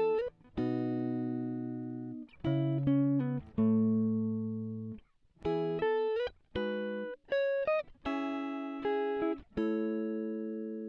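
Background music: a plucked guitar playing a slow, unaccompanied line of ringing notes and chords, each one struck sharply and left to fade.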